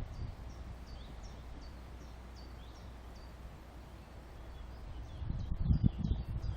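A small bird calling with a repeated short high chirp, about three a second, over a low outdoor rumble that swells near the end.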